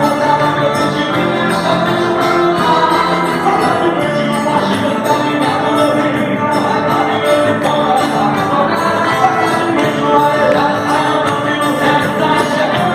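A band playing evangelical praise music, with a tambourine jingling through it.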